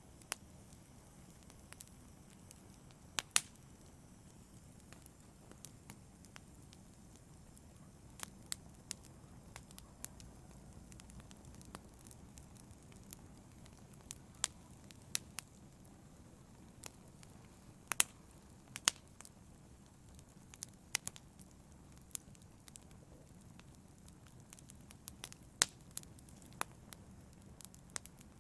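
Wood fire burning in a fireplace: a low steady rumble of the flames with irregular sharp crackles and pops, a few louder snaps among them and more of them near the end.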